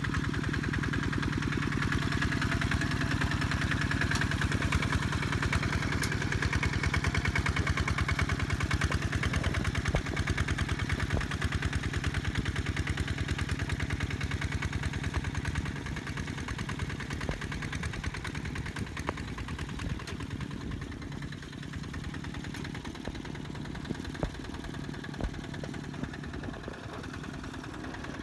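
Kubota tractor's diesel engine running steadily while working through a rice paddy, a fast even firing beat throughout; it grows a little quieter about halfway through.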